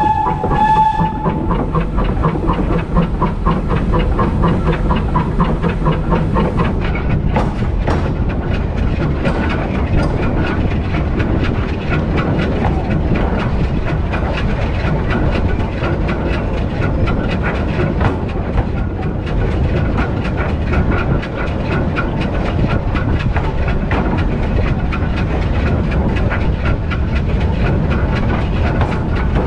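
A steam locomotive's whistle sounding and cutting off about a second in, then the locomotive running along the line with a fast, even rhythm of beats and rattle.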